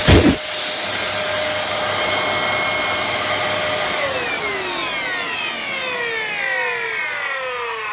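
Dyson DC07 upright vacuum cleaner running with a steady whine after a thump at the start, then switched off about four seconds in, its motor winding down in a long falling whine.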